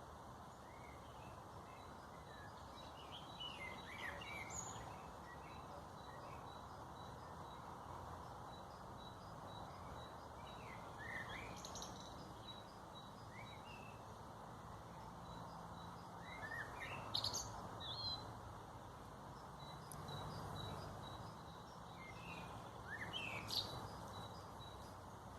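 Wild birds chirping and calling here and there, with sharper calls about 17 and 23 seconds in, over a faint high note repeating a few times a second and a steady low background rumble.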